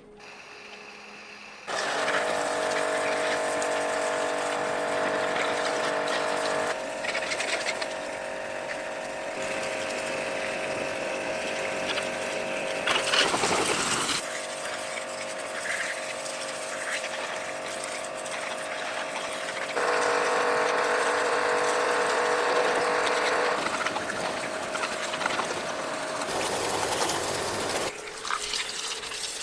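Electric pressure washer running: a steady motor-pump whine over hissing water spray, shifting in pitch and loudness several times.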